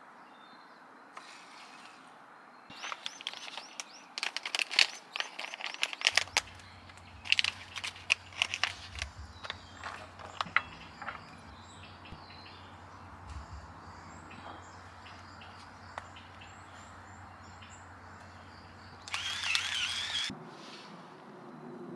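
Small birds chirping in quick runs of short notes, busiest in the first half, with another brief call near the end. A low steady hum runs underneath from about six seconds in until just before the end.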